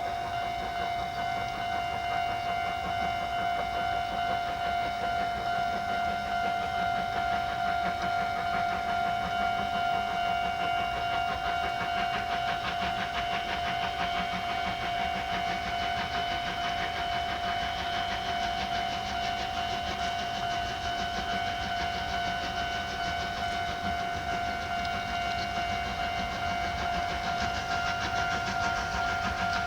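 A steady high-pitched tone held unbroken throughout, over the low rumble of a train.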